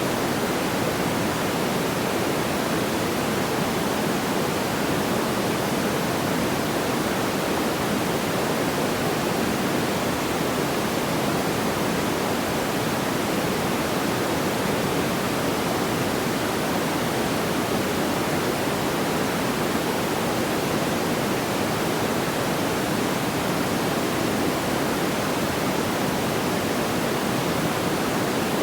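Steady, even rushing noise, strongest in the low-middle range, unchanging throughout, with no crackles or pops.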